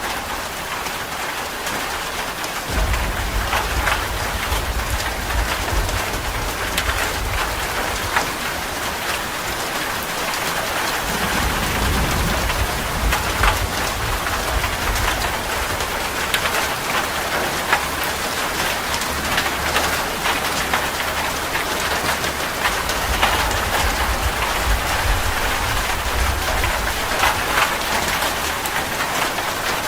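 Steady rain falling on a tree branch and its leaves, with many separate drop hits close by. A low rumble comes and goes underneath.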